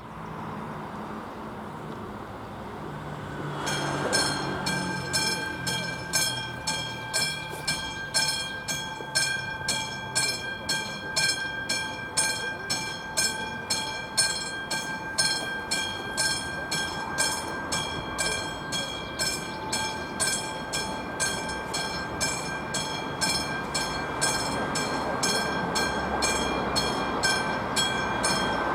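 Level-crossing warning bell of the classic striking type, starting to ring about four seconds in and then ringing steadily at about two strokes a second. The crossing has been activated, warning of an approaching train.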